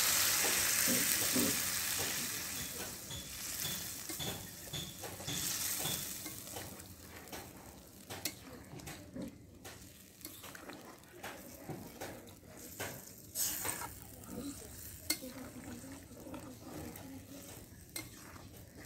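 Liquid poured into a hot karahi of frying chicken and potatoes sizzles loudly at first, the sizzle dying away over about six seconds. A metal spatula then stirs the curry, scraping and clinking against the pan.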